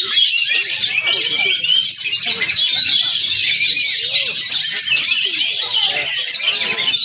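Oriental magpie-robin (kacer) singing a dense, unbroken run of quick, varied whistles and chirps, with lower warbling notes beneath.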